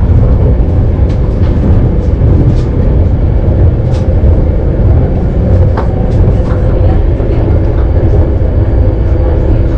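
Steady low rumble of a high-speed passenger train running at speed, heard from inside the carriage by the doors, with a few light clicks and rattles scattered through it.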